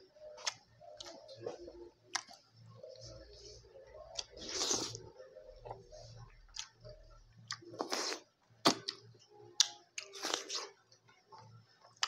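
Close-miked eating sounds from a meal of rice and fish eaten by hand: chewing and wet lip smacks, with scattered sharp clicks and a few short, louder bursts of noise around five, eight and ten seconds in.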